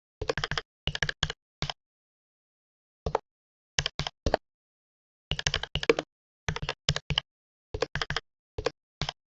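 Computer keyboard typing: short runs of a few sharp keystrokes with pauses between them, the longest pause, over a second, about two seconds in.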